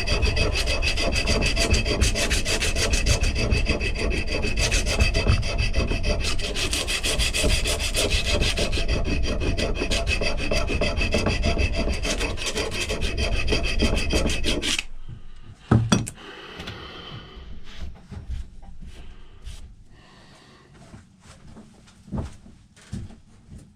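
Hand sanding of a rusty steel axe head: sandpaper rubbed in fast back-and-forth strokes to take off rust and smooth the metal. The rubbing stops abruptly about 15 seconds in, followed by a single loud knock and a few lighter knocks.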